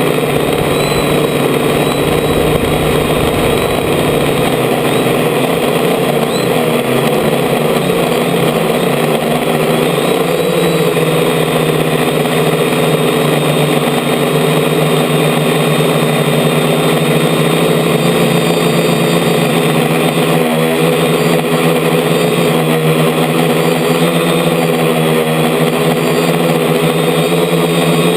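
DJI F450 quadcopter's four motors and propellers buzzing steadily in flight, heard through a camera mounted on the frame, with small shifts in pitch as the throttle changes.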